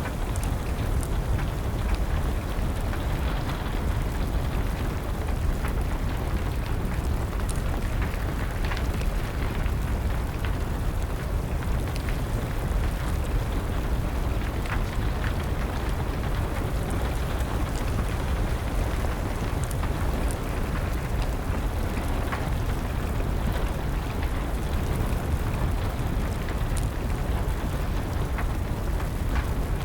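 Steady rain with a low rumble, and a wood fire crackling with sharp pops scattered through it.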